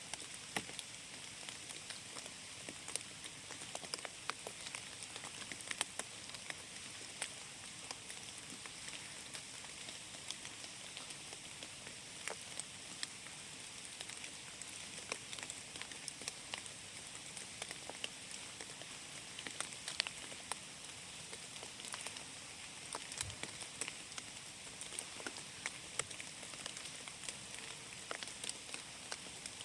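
Rain falling in a forest: a steady patter with scattered close drops ticking sharply on leaves.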